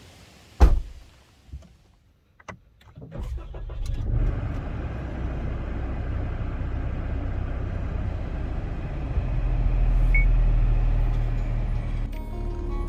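A car door thuds shut, followed by a few knocks and clicks. About three seconds in, a car engine starts and runs with a steady low rumble that swells a little near the end.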